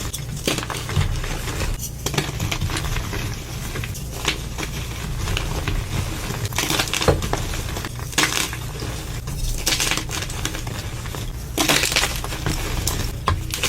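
Concrete being mixed: continuous gritty scraping and crunching, dense with sharp little clicks of grit and stone, swelling into louder crunches a few times.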